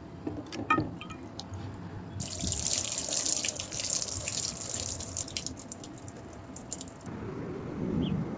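Water running and splattering, starting about two seconds in and cutting off suddenly about seven seconds in, with scattered drips and clicks before and during it.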